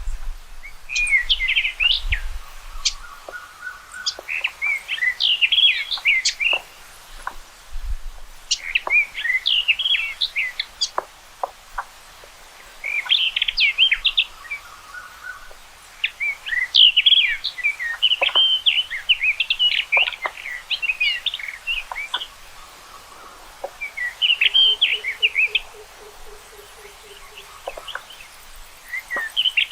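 Rufous-tailed rock thrush (Monticola saxatilis) singing: phrases of quick, high, rapidly changing notes, each a second or two long, repeated with short pauses between.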